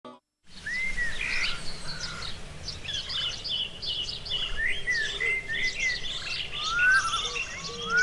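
Several birds chirping and calling together, with quick chirps and repeated rising whistles.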